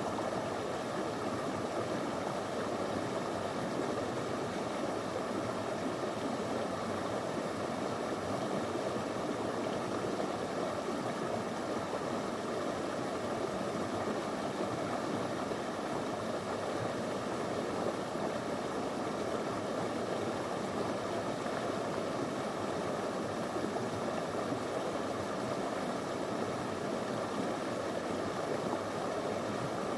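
Small river flowing over stones, a steady rush of water that does not change.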